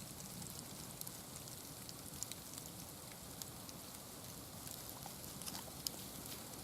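Faint, steady outdoor hiss with scattered soft ticks and small crackles, and no distinct event.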